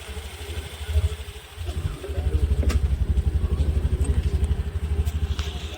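A motorcycle engine running close by with a low, rapid, even putter, growing louder about two seconds in and easing off near the end.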